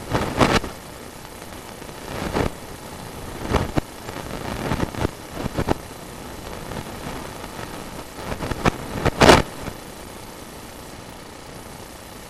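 Sewer inspection camera's push cable being fed through a drain line: irregular scrapes and knocks, the loudest about nine seconds in, over a steady running hum.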